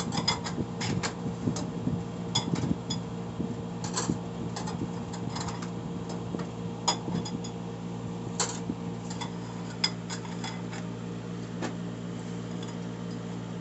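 Light metallic clicks and clinks of TH350 transmission clutch plates being handled and set down one against another, thick in the first few seconds and sparser after, with a sharper clink about seven seconds in and again near eight and a half. A steady low hum runs underneath.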